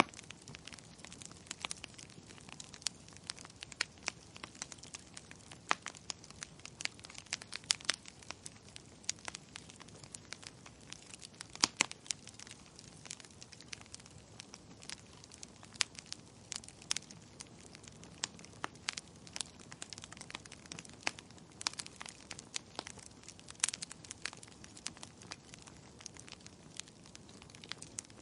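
Wood fire crackling, with irregular sharp pops and snaps over a faint hiss and one louder pop about twelve seconds in.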